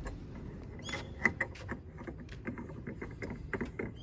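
A run of light, irregular clicks and taps of hand tools and car parts being handled, with one louder click a little after a second in and a brief high squeak just before it.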